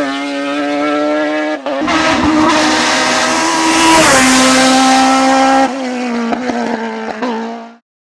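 Race car engine held at high, nearly steady revs, its pitch stepping down briefly twice, then the sound cuts off suddenly near the end.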